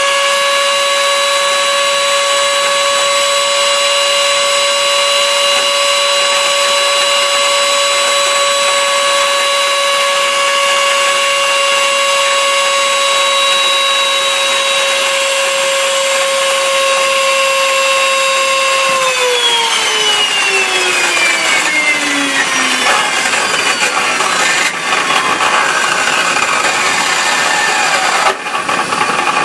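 Blendtec Total Blender's motor running at a steady high whine, then about two-thirds of the way through its pitch falls over a few seconds as the motor slows, turning rougher near the end.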